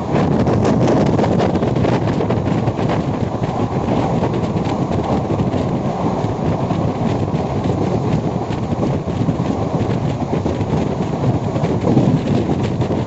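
Express passenger train coaches rushing past at high speed, wheels clattering continuously over the rails, with wind buffeting the microphone.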